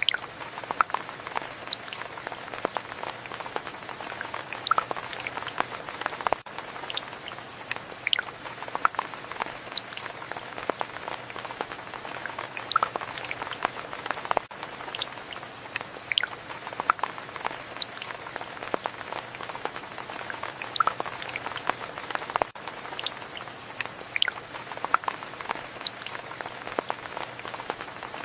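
Steady rain falling, an even hiss full of many sharp, separate drips and patters.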